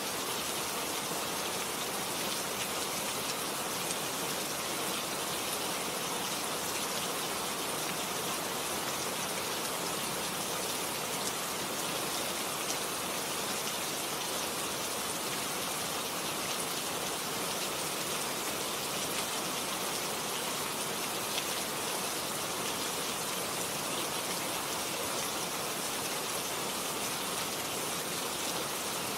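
Steady rain falling: an even, unbroken hiss dotted with the fine ticks of individual drops.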